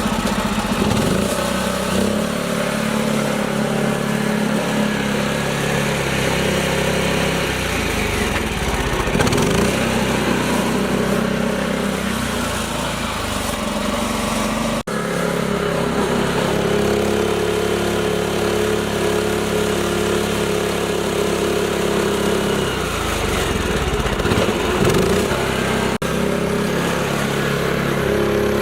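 Mini tractor engine running steadily under load, its speed rising and falling now and then.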